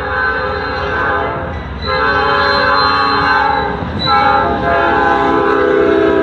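Diesel freight locomotive's horn sounding in long blasts of several tones at once, breaking briefly about two seconds in and again about four seconds in.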